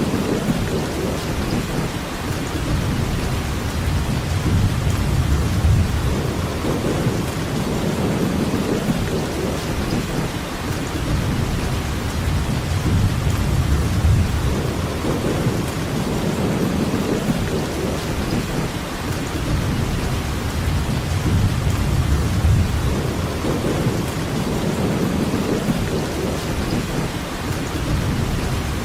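Steady heavy rainfall, an even hiss across the whole range, under a low rumble that swells and fades every few seconds.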